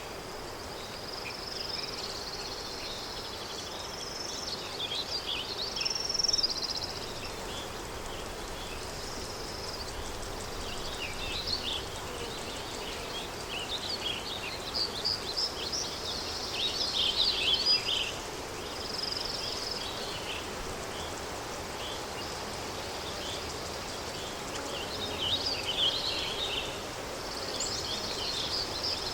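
Countryside daytime ambience: a steady wind-like hiss with birds chirping and twittering in repeated bursts, busiest and loudest about two thirds of the way through.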